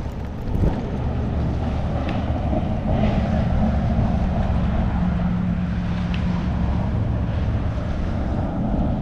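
A vehicle's motor running steadily while moving, with a low hum and wind buffeting the microphone.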